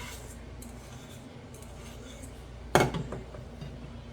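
Faint clicks and scraping of a utensil against a dish while the last of the deviled-egg filling is scraped out, with one sharp knock a little under three seconds in followed by a few lighter taps.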